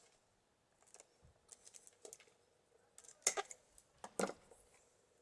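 Wicker basket rods crackling and scraping as a stick is worked into the weave, with scattered small clicks and two louder crackling scrapes about 3 and 4 seconds in.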